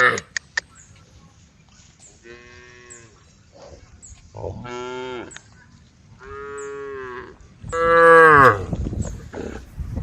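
Cows mooing: four long, drawn-out calls a second or two apart, the last the loudest. A few sharp clicks near the start.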